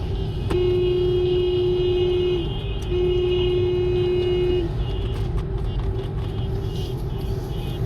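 Car horn sounding two long warning blasts of about two seconds each, with a short gap between them, over steady low engine and road noise.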